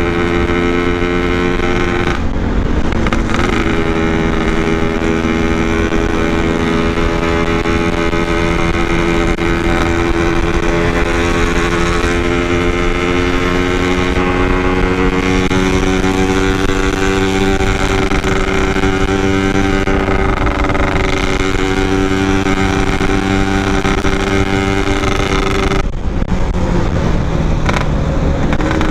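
Yamaha RX-King's 135 cc two-stroke single-cylinder engine running as the motorcycle is ridden, a steady engine note that climbs slowly in pitch. The note drops briefly twice, a couple of seconds in and near the end.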